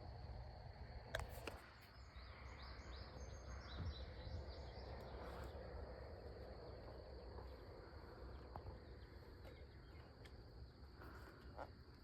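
Faint outdoor ambience: a low steady rumble and a thin steady high tone, with a run of quick high chirps a few seconds in.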